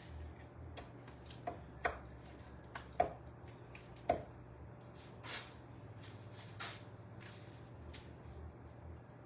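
Light kitchen handling sounds: a few sharp taps and knocks, then two short rustling swishes, over a steady low hum.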